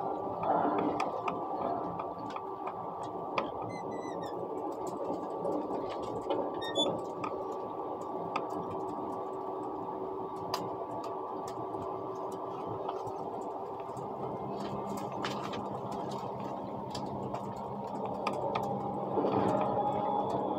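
Cabin noise inside a moving ICE high-speed train: a steady running rumble with a faint constant whine and scattered light clicks and rattles.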